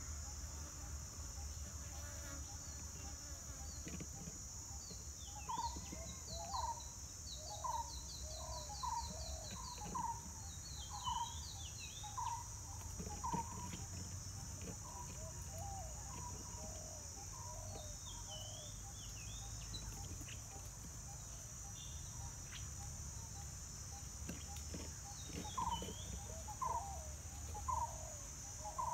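Wild birds calling: a mid-pitched call repeated about once a second in two runs, one in the first half and one near the end, with higher chirps and a quick trill mixed in, over a steady high insect drone.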